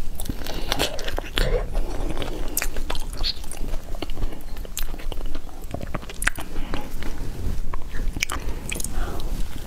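Close-miked mouth sounds of a person biting and chewing durian flesh, with many short clicks and smacks.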